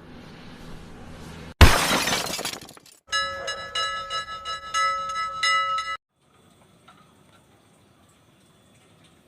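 An intro sound-effect sequence: a sudden loud glass-shatter crash, then several ringing bell-like tones held for about three seconds that cut off abruptly, leaving only faint ticks.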